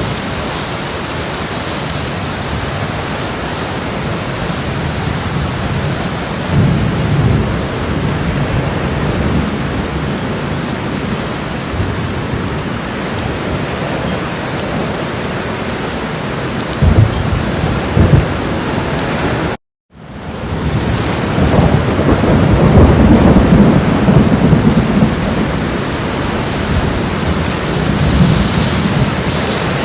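Homemade thunderstorm sound effects: steady rain with low thunder rumbles, two sharper claps about two-thirds of the way in, then a brief complete dropout and a louder, longer roll of thunder.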